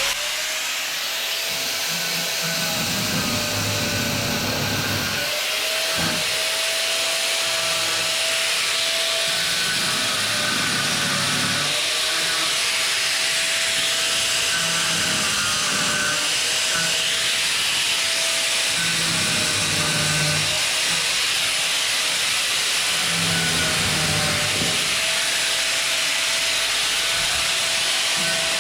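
Power grinder running steadily, grinding off the screw tips that poke through the new deck panels: a constant hiss with a wavering motor whine. Background music plays underneath.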